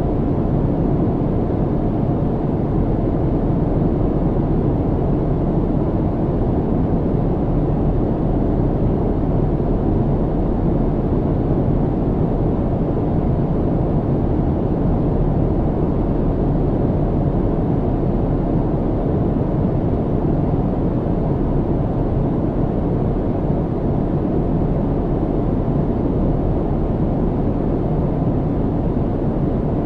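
Steady low rumble of an airliner cabin in flight: even engine and airflow noise, heaviest in the bass, with no changes.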